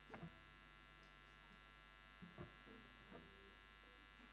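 Near silence apart from a steady electrical mains hum and buzz from the stage amplification, with a few faint clicks and knocks.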